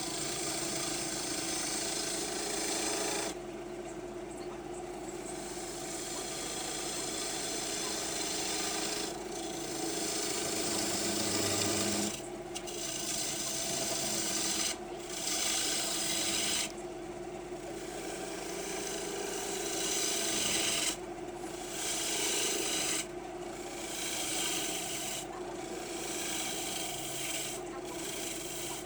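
Wood lathe running as a gouge cuts a spinning green maple bowl blank: a steady motor hum under a hissing, scraping cut that stops for a moment about ten times as the tool comes off the wood.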